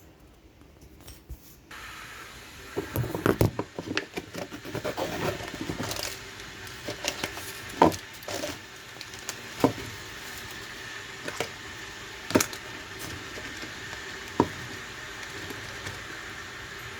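Water being put on to heat in a kettle: a steady hiss starts about two seconds in, with a run of clattering knocks and then single sharp knocks every second or two.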